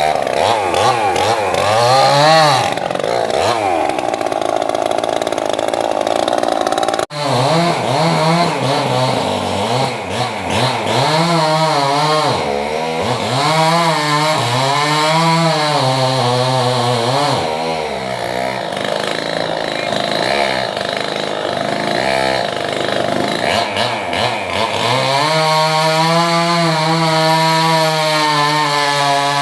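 Two-stroke chainsaw cutting into an old rambutan tree, its engine pitch rising and dipping over and over as the chain loads up in the wood and frees again. There is a sudden short gap about seven seconds in.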